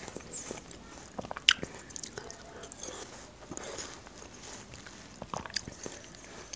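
Close-miked chewing of a mouthful of watermelon: small wet crunches and mouth clicks, with a few sharper clicks scattered through.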